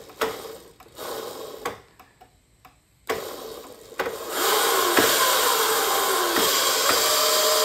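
Razor MX650 electric dirt bike's stock 36-volt motor and chain drive, running on two Makita 18 V batteries wired in series. After a few light clicks, the motor starts about four seconds in and runs steadily with a whine, its pitch wavering a little at first.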